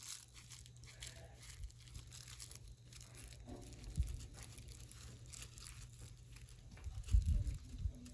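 Crinkling and tearing of a crumpled, papery material, with low thumps about four seconds in and again near the end.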